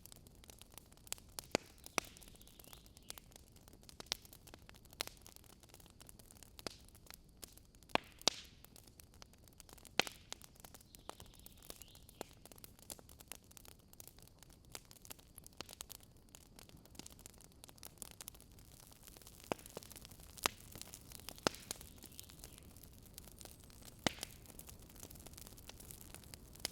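Wood campfire crackling: irregular sharp pops and snaps over a low steady hiss from the burning fire.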